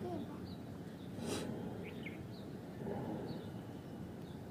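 Small birds giving a few short, high chirps, scattered and faint, over steady outdoor background noise. A brief rustle comes about a second in.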